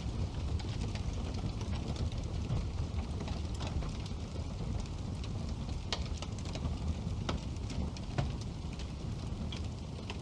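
Wood fire burning in a fireplace: a steady low rumble of flames with scattered sharp crackles and pops, a few louder pops in the second half.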